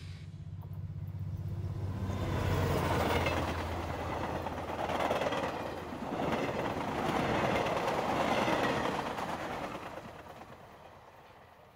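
Train sound effect: a low rhythmic rumble at first, then a hissing rush that swells and eases several times and fades away near the end.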